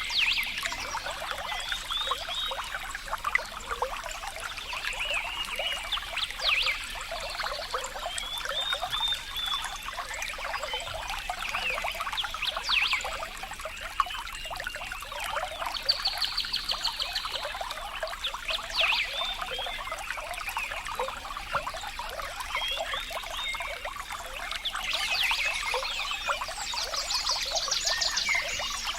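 Water trickling and splashing steadily, with animal calls in short rapid trills repeating over it, busiest near the end.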